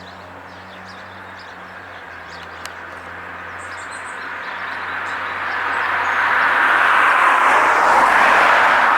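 A steady rushing noise that swells louder over about five seconds and then holds, with a few faint bird chirps about four seconds in.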